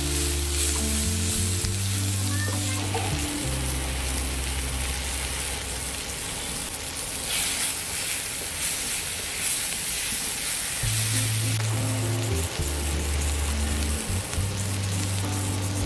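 Onion, tomato and spice masala sizzling in hot oil in a pan, stirred and scraped with a slotted spatula. Background music with sustained low notes plays over it.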